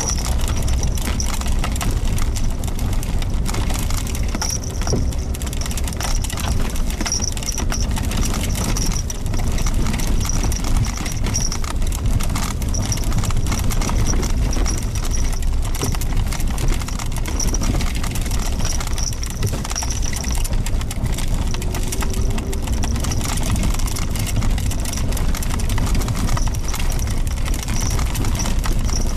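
Suzuki Jimny Sierra driving on a gravel forest road: a steady low engine and road rumble under dense crunching and rattling from the tyres on loose stones. A faint high thin tone comes and goes over it.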